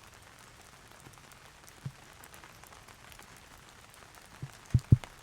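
Heavy rain falling steadily, with a few short low thumps; two louder ones come close together near the end.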